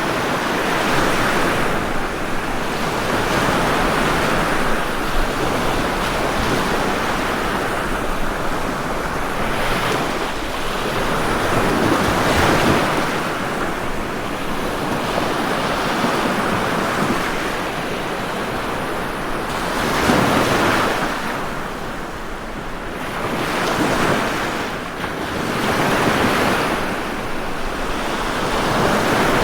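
Ocean waves breaking and washing in, a continuous surf noise that swells and eases every few seconds.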